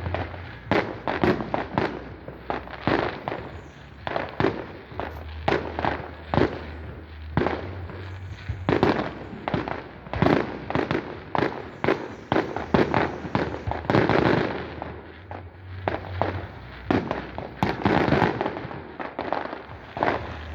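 Fireworks going off in quick, irregular succession: a dense string of bangs, with the loudest clusters around the middle and near the end.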